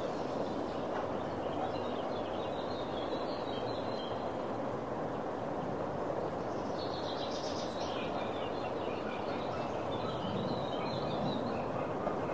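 Small birds chirping in a few short bursts over a steady background of outdoor noise.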